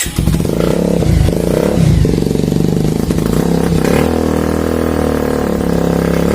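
Superbike engine with an Akrapovič aftermarket exhaust starting up, revved in a few short blips and settling to a steady idle.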